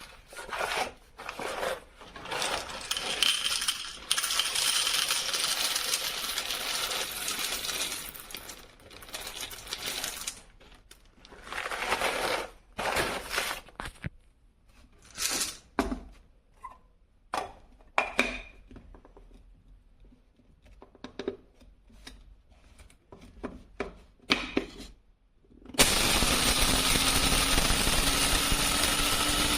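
Rattling and clinking of small hard objects, then scattered clicks and knocks. Near the end, the Amazon Basics electric blade coffee grinder's motor starts and runs steadily, its hum rising slightly in pitch.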